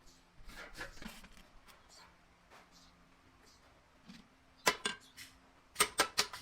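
Sheet metal being worked by hand: scattered light metallic taps and clicks, then a few sharp, loud strikes, a pair about three quarters of the way through and a quick cluster near the end.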